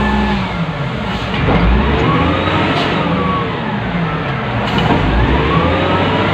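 Wheel loader's diesel engine heard from the operator's cab, revving up and dropping back in repeated swells about every three seconds as the machine works. Two short knocks come midway and later on.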